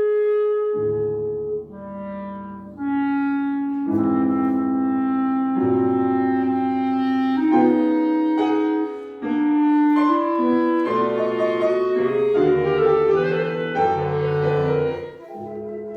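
Modern classical chamber music for a small mixed ensemble, with clarinet and piano prominent among several instruments holding overlapping, changing notes. The music drops briefly a couple of times and grows quieter near the end.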